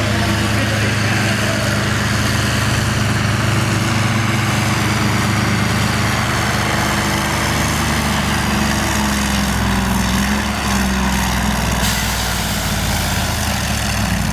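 Engine of a naturally aspirated pulling tractor running steadily at a fairly constant speed.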